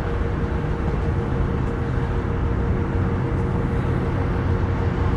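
BNSF freight train rolling slowly as it brings itself to a stop, a steady low rumble with a steady tone running through it.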